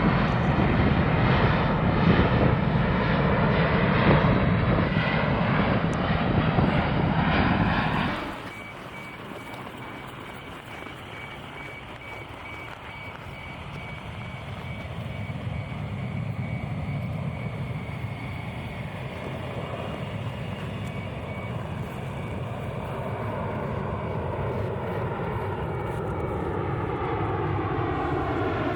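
Jet engines of a C-17 Globemaster III transport: loud jet noise for about eight seconds, then a sudden cut to a quieter steady engine drone with a thin high whine. Near the end the engine tones fall in pitch.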